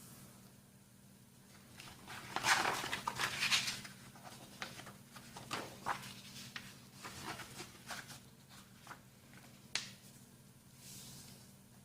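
A sheet of printer paper being handled and folded: rustling and crinkling with short, sharp swipes as creases are pressed, loudest about two to four seconds in.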